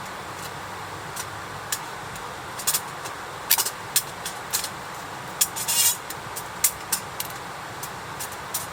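Wood campfire crackling: irregular sharp pops over a steady hiss, with a quick run of crackles about six seconds in.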